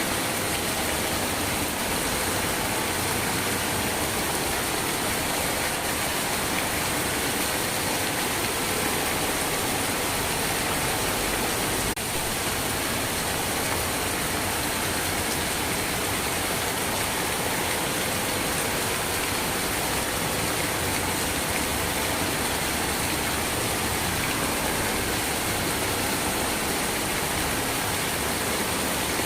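Steady rain falling, an even, unbroken hiss of water with no let-up.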